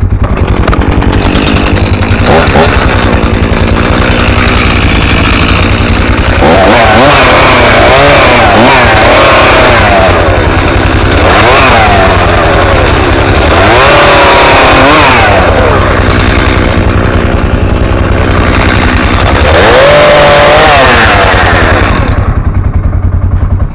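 Chainsaw running and cutting wood, its engine pitch rising and falling several times as it revs up and bogs down in the cut. The engine drops away suddenly at the very end.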